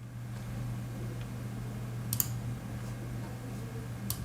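Desktop PC running with a steady low hum from its spinning 7200 RPM hard drive and fans, with two sharp computer clicks, about two seconds in and near the end.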